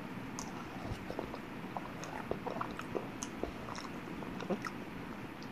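A person chewing a mouthful of lasagna, with many small irregular mouth clicks.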